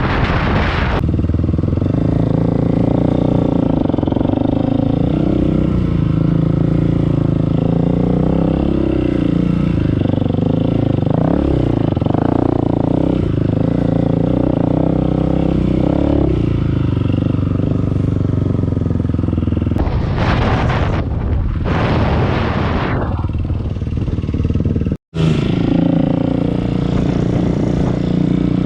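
Dirt bike engine running under way, its pitch rising and falling with throttle changes. Two rushes of wind on the microphone come in the last third, and the sound cuts out for an instant shortly after them.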